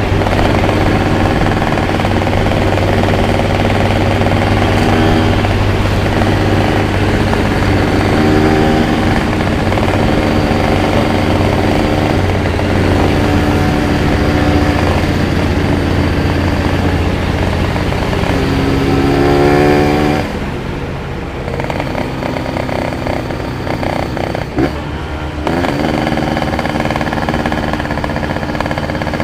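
Yamaha RX-King two-stroke single-cylinder motorcycle engine running under load while riding. Its pitch rises at about two-thirds of the way through, then drops away quieter for about five seconds as the throttle eases off, before the engine comes back up near the end.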